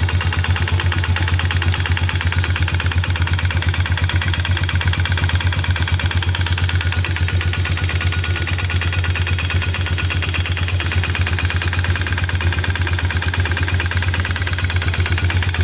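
Polaris 330 Trail Boss ATV's single-cylinder four-stroke engine idling steadily. The owner hears a strange noise at idle, which he places in the CVT clutch or the engine and which goes away when the throttle is opened.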